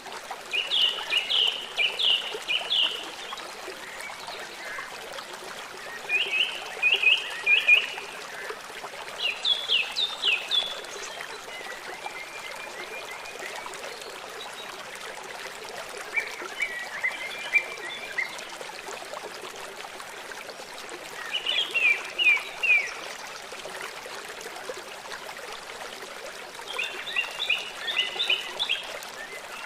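A songbird singing short phrases of quick repeated whistled notes, each phrase a second or two long, about every five seconds, over the steady trickle of a stream.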